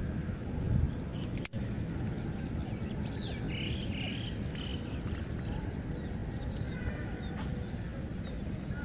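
Small birds chirping, a run of short, quick, falling notes repeated many times, over a steady low background rumble.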